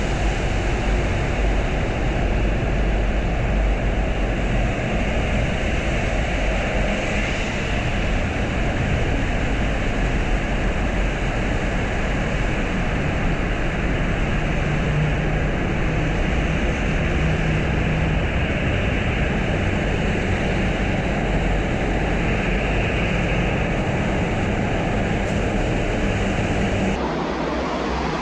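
Steady, loud rushing of wind and rain noise on the camera microphone while riding a bicycle on a wet road, with a faint low hum around the middle.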